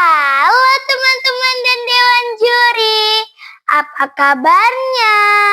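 A young girl's voice calling out a drawn-out, sing-song greeting in long held notes with gliding pitch, ending in "kabarnya?".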